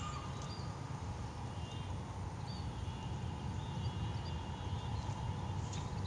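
Small birds giving short, high chirps every second or so, faint over a steady low rumble.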